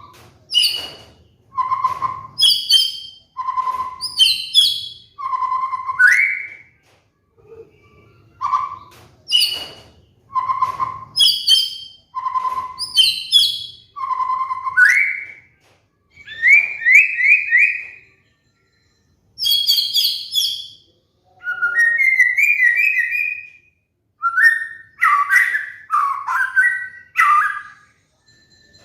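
White-rumped shama (murai batu) song, recorded for training a caged bird: short phrases about every two seconds, each a clear low whistle followed by high chattering notes. Partway through, the same run of phrases starts over, and the second half brings quick rising trills.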